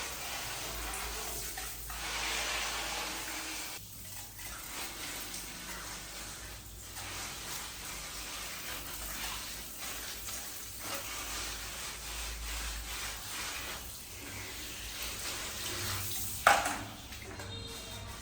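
Water running from a tap and splashing as a small monkey is washed by hand, uneven and continuous, with one sudden sharp sound near the end.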